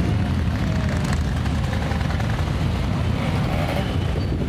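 Engines of many motorcycles running together as a steady, low rumble.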